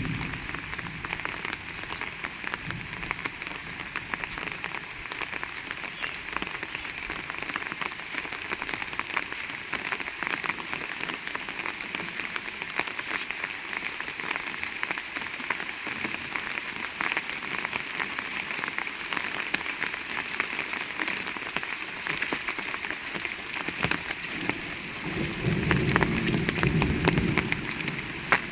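Heavy rain falling steadily, a dense patter of drops. Near the end a louder low rumble comes in for a few seconds.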